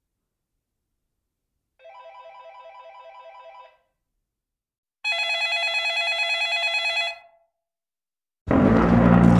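Telephone bell ringing in two rings of about two seconds each, a fast trill, the second ring louder. Near the end a loud, noisy sound with a low hum starts abruptly.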